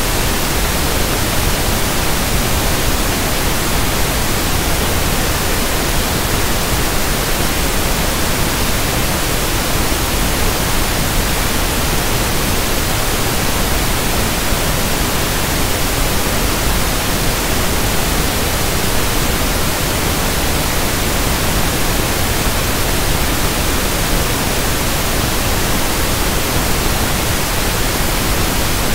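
Steady synthetic pink noise (1/f noise): an even, unchanging hiss.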